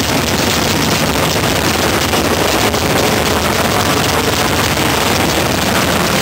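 Loud, steady rumble of a first-generation Chevrolet Camaro drag car's engine running at the starting line.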